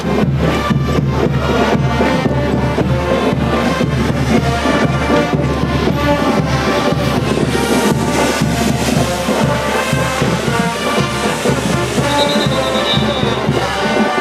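Brass band playing a diablada tune, with massed brass and a steady pounding drum beat.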